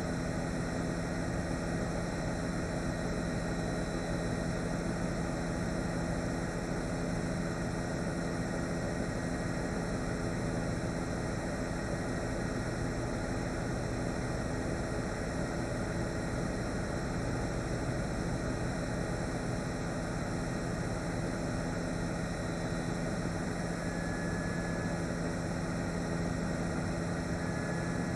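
Steady, unchanging drone of a news helicopter's engine and rotors: a constant hum of several even tones over a wash of noise.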